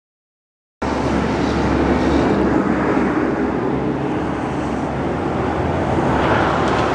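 Silence, then about a second in a steady low rumble of a running vehicle engine cuts in abruptly, with wind noise on the microphone.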